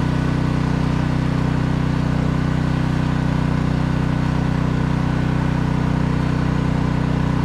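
Pressure washer running steadily at an even pitch, with the hiss of its spray.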